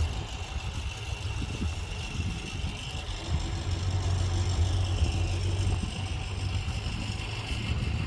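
Diesel engine of heavy earthmoving machinery running steadily as a low rumble, with a thin steady high-pitched tone above it.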